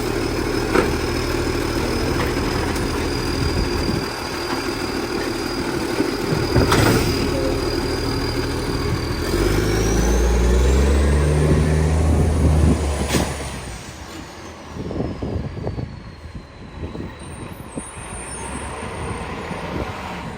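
Garbage truck's diesel engine running with a large exhaust leak, with a short sharp hiss about seven seconds in. The engine then revs up in steps as the truck pulls away, and its sound drops off after about thirteen seconds.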